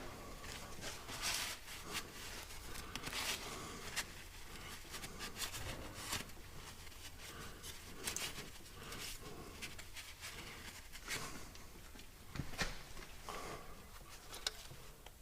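Faint, scattered rubbing and light clicks of hand work on a tractor engine, a few every second with quieter gaps between.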